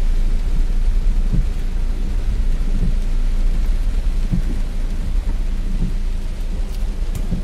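Heavy rain drumming on the car's roof and windscreen, heard from inside the cabin as a loud, steady low rumble with a hiss of rain over it.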